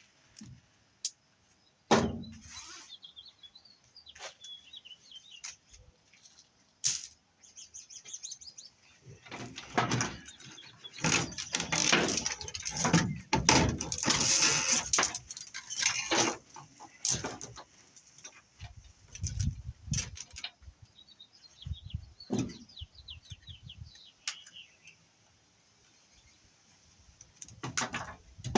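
Scrap BX armored cable and metal pieces being handled and sorted: scattered clicks and knocks, with a busy stretch of scraping and rattling in the middle. Small birds chirp in the background now and then.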